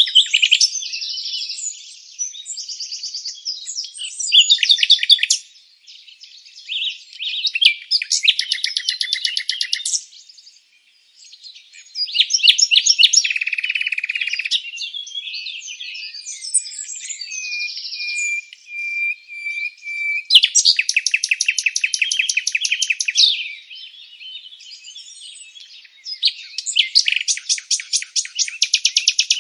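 Songbird song: a string of varied high chirps and whistled phrases, broken by several fast rapid-fire trills and one held whistle about two-thirds of the way through.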